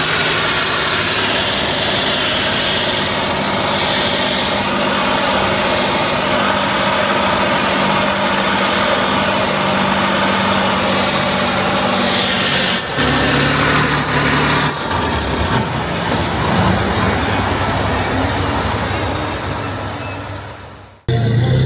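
Tractor engine running loud and steady at high revs, typical of a tractor pull. About 13 seconds in the sound changes and then slowly fades. It cuts off abruptly near the end, and a different engine sound starts.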